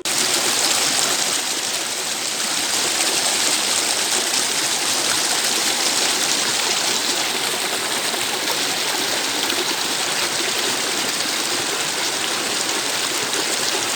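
Mountain stream rushing over rocks: a steady, loud water noise that begins and ends abruptly.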